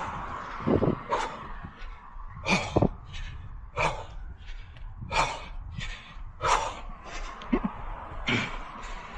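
A runner's heavy, rhythmic breathing close to the microphone, a loud breath about every second and a bit with softer ones between, from the effort of running hard.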